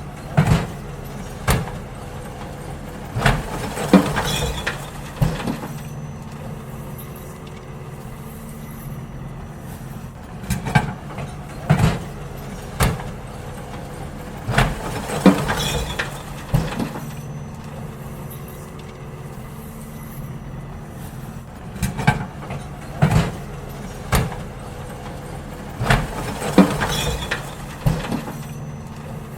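Garbage truck engine running steadily, with clusters of sharp bangs and clanks as bins are emptied into it, recurring about every eleven seconds.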